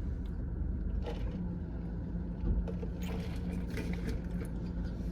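A steady low mechanical hum with a constant droning tone, under scattered small clicks and rustles.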